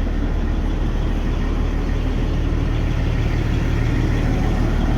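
Diesel big-rig truck engine idling, a steady low rumble.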